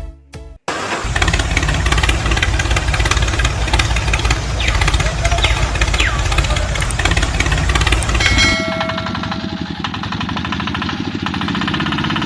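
A small engine running loud and busy, then settling to a steadier, quieter idle about eight seconds in.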